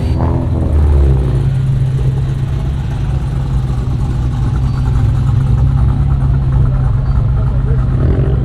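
Car engine running steadily at low revs with a deep, even drone.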